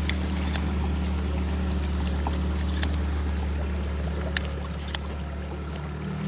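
Motor of a small marsh boat running at a steady pace, a constant low drone with a few light knocks over it.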